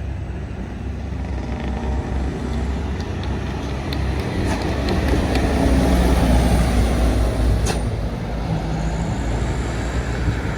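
A heavy road vehicle's engine running as it passes close by. The low hum builds to its loudest about two-thirds of the way through, then eases off, with a brief sharp click along the way.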